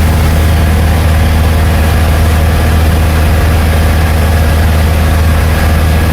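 Cessna 172 Skyhawk's piston engine and propeller droning steadily in the cabin, an even low hum with no change in pitch.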